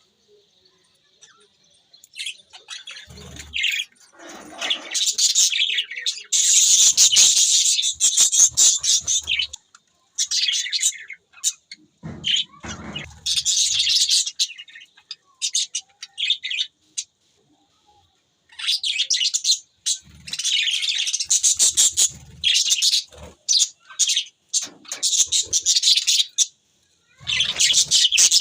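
Budgerigars chirping and chattering in busy bursts of a few seconds, broken by short pauses.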